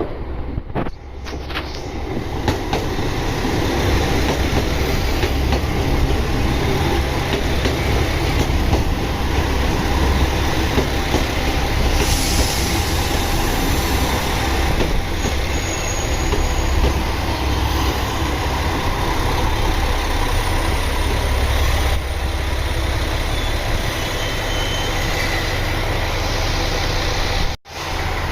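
A diesel railcar train running on the rails, with a steady low engine rumble and wheel noise on the track. The sound builds up over the first couple of seconds and then holds loud, cutting out abruptly just before the end.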